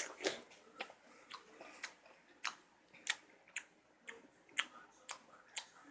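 A person chewing close to the microphone, with a crisp, wet crunch about twice a second in an even rhythm.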